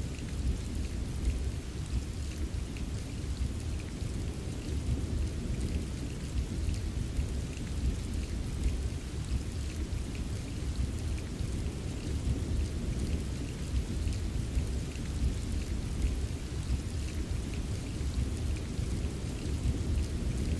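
Steady rain during a thunderstorm: a continuous low rumble of thunder under an even hiss of rain, with faint scattered ticks of drops.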